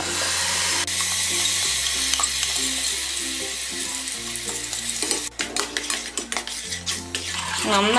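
Ground onion and garlic paste sizzling as it hits hot olive oil in a stainless steel saucepan, the hiss loudest at first and easing off after about four seconds. In the second half a spoon stirring it clicks and scrapes against the pan.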